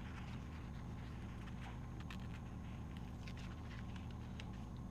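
Faint scattered ticks and light rustles of a paper sticker sheet and a sticker being handled, over a steady low hum.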